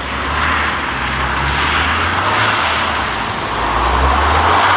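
Modified car's engine and exhaust running loudly as it drives off, a low drone under a rough hiss that swells about half a second in and again near the end.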